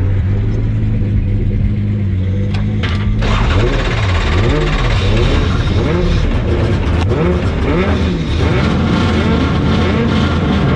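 Car engine running at a steady note, then about three seconds in the revs jump and keep rising and falling as the throttle is worked hard, as in a drift run.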